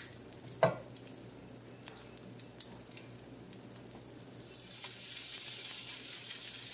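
Potato pancakes sizzling as they fry on a hot electric griddle. The sizzle grows louder about four and a half seconds in. A single knock comes about half a second in.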